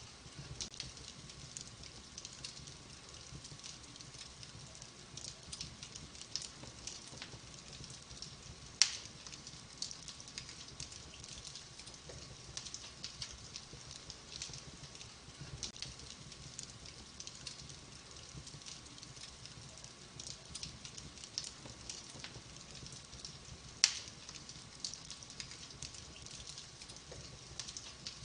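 Wood fire burning in a fireplace, crackling steadily with many small snaps, and two louder pops about nine and twenty-four seconds in.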